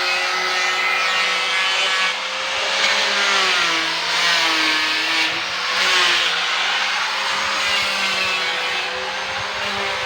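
Electric power sander running against a refrigerator's sheet-metal body, a steady motor whine over a scraping hiss. The pitch sags for a moment near the middle as the tool is pressed harder, then recovers.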